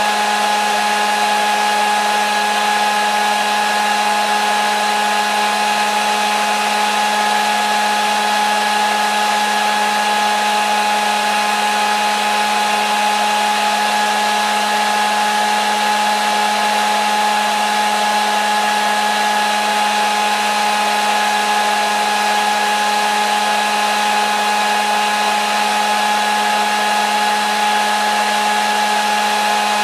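Hair dryer running steadily on one setting: an even rush of blown air over a constant motor whine, with no change in speed.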